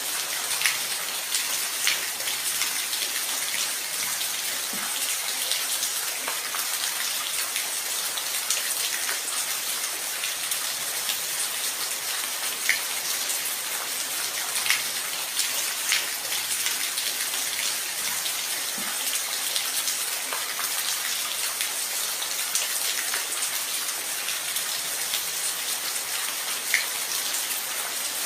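Steady rain falling, an even hiss with heavier drops or drips landing sharply every few seconds.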